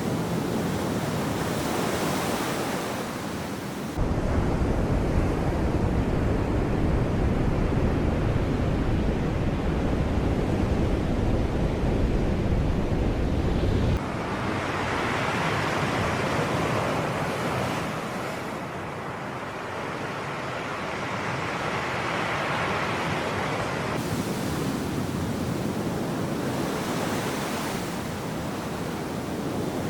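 Sea waves washing and surging onto the shore, with wind rumbling on the microphone. The sound changes abruptly about four seconds in, when a deep rumble comes in, and again about halfway through, when a softer washing hiss takes over.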